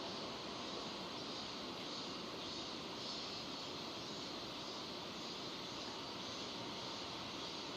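Steady rain falling: an even, unbroken hiss with no single drops or knocks standing out.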